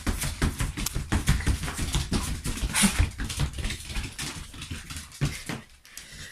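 Shiba Inus' paws and claws pattering and scrabbling rapidly on the floor as the dogs run about, a quick irregular run of taps and thumps that thins out near the end.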